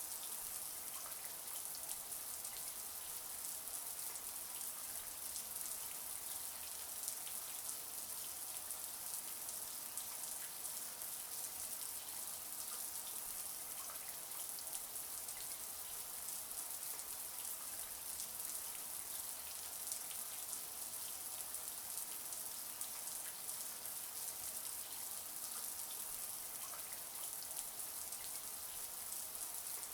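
Shower water running steadily, a constant high hiss of spray with fine spattering of drops.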